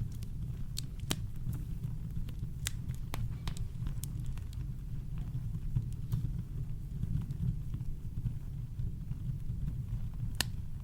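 Campfire crackling: scattered sharp pops and snaps of burning wood, a strong one near the end, over a steady deep brown-noise rumble.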